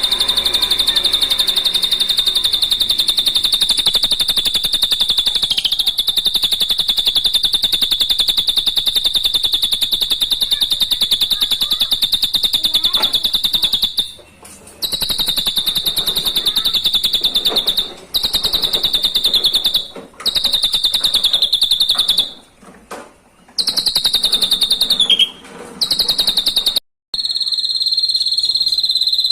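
Drongo song from a songbird tutor recording: a long, high, very rapid trill that runs unbroken at first, then stops and restarts several times in the second half, and ends on a steadier high note.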